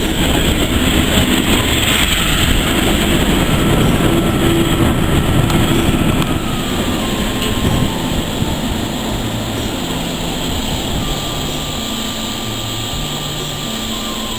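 A train running, a loud steady rumble that eases off a little after about eight seconds.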